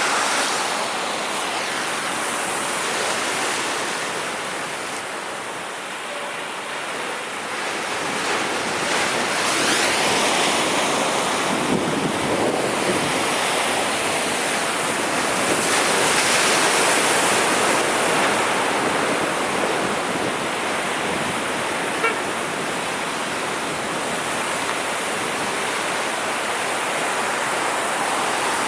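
Sea waves breaking and washing ashore, a steady surf that swells and eases as each wave comes in. A single brief click about three quarters of the way through.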